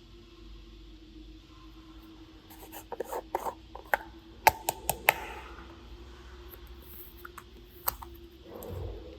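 A run of sharp clicks and taps from small objects being handled, densest about three to five seconds in with four loud clicks in quick succession, and one more click near the end, over a faint steady hum.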